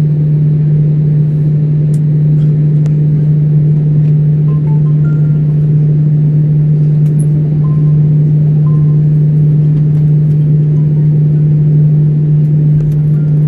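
Steady, loud low hum inside a parked airliner's cabin, unchanging throughout, with a few faint short higher tones over it.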